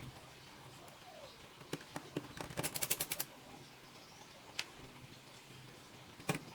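Small hard clicks and taps from handling laptop parts and tools, with a quick rattling run of clicks near the middle and a few single clicks either side.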